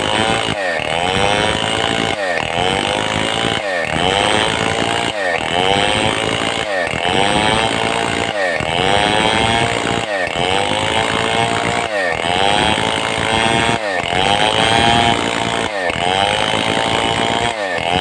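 Stihl 070 two-stroke chainsaw running hard, ripping a mahogany log lengthwise into boards. Its engine note dips and climbs back in a regular cycle about every one and a half seconds.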